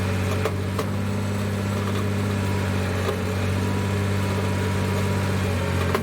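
International 1066 tractor's diesel engine running steadily at low speed, with a few light knocks and clicks over it.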